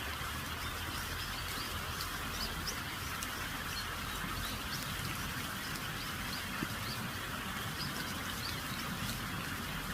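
Steady rain with short, high bird chirps scattered through it.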